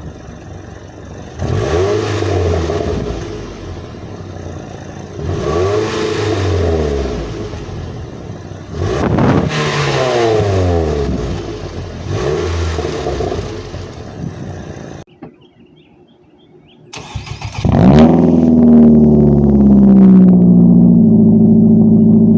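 A 2007 Nissan Altima's QR25DE 2.5-litre four-cylinder on the stock exhaust, revved four times, each rev rising and falling back. After a brief quiet gap about two-thirds of the way through, the same engine on a custom single-exit cat-back exhaust is cranked and starts, its idle flaring high and then settling to a steady idle.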